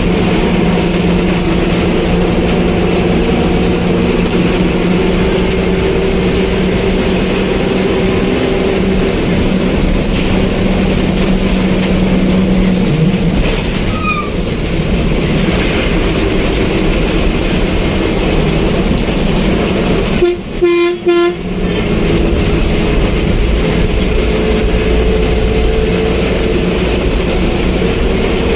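A road vehicle running steadily, a loud continuous engine and road noise with a low hum that shifts pitch about halfway through. A short horn toot sounds about 20 seconds in.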